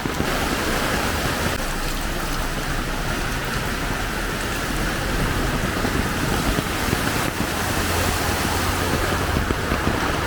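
Heavy tropical rain pouring steadily, a dense, even hiss, with a low hum joining in the last few seconds.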